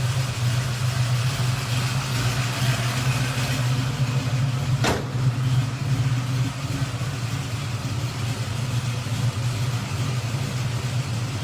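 Car engine running steadily at idle, with a single sharp click about five seconds in. The car is the one with a 363-cubic-inch fuel-injected engine.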